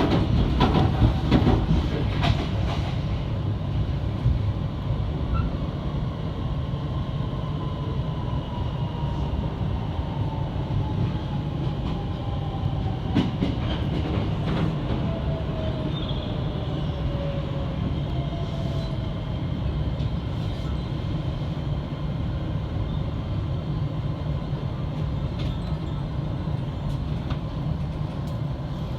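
Electric commuter train at the station running with a steady rumble and wheel clatter, with clicks in the first few seconds. A thin motor whine slides slowly down in pitch from about eight seconds in to about eighteen.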